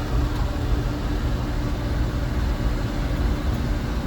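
1966 Ford F500 truck's engine running steadily while the truck drives along, a continuous low rumble with road noise.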